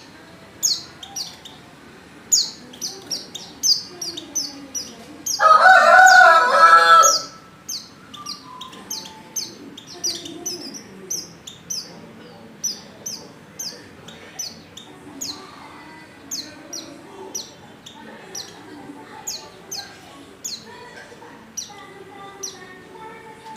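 Female white-eye (pleci) repeating short, high chirps, two or three a second: the call of a female in breeding condition calling to males. About five seconds in, a much louder, lower call lasts for about two seconds.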